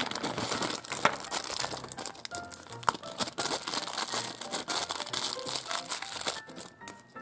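Small clear plastic bag crinkling and rustling as it is handled and worked open, stopping about a second before the end, over quiet background music.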